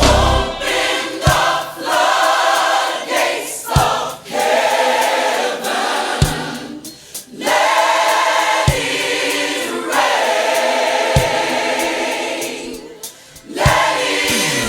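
Gospel choir singing over backing music, with a low beat about every two and a half seconds.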